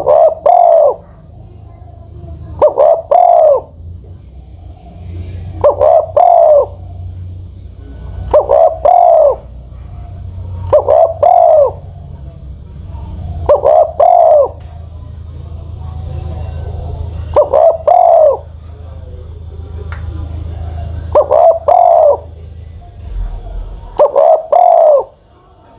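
Spotted dove cooing, repeating a short phrase of two or three notes about every three seconds, over a steady low hum.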